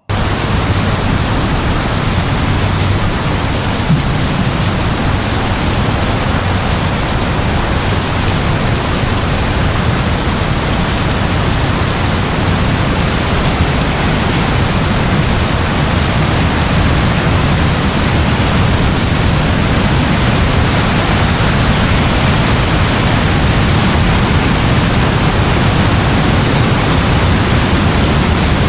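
Heavy rain falling steadily: a loud, dense, even hiss with a low rumbling body, cutting in suddenly at the start.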